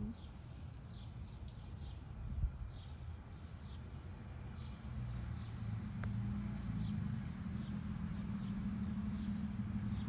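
A bird gives short chirps over and over, and a low steady engine drone comes in about halfway through and grows louder.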